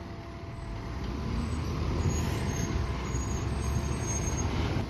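Fire engine's diesel engine running with a steady low rumble, growing a little louder about two seconds in.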